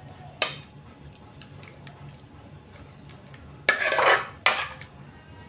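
Kitchen utensil clinking against a bowl or pan while boiled potato is being mashed: a sharp clink about half a second in, then a louder clatter near four seconds and another clink just after.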